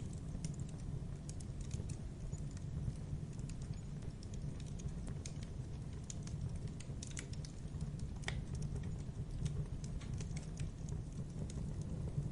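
Wood fire burning in a fireplace: a steady low rumble of flame with irregular sharp crackles and snaps, one louder pop about eight seconds in.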